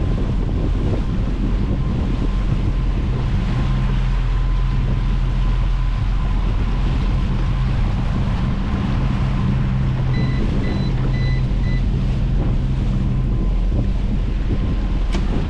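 A small fishing boat's engine running steadily under way, with wind buffeting the microphone and water rushing past the hull. A few short, faint electronic beeps come about ten seconds in.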